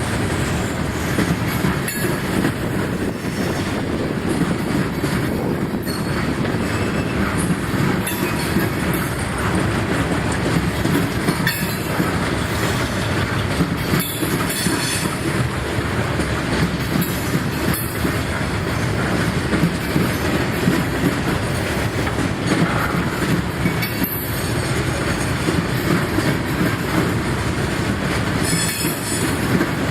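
Freight cars of a Norfolk Southern ballast train rolling steadily past, a constant rumble of wheels on rail with clicking over the joints and a few brief wheel squeals.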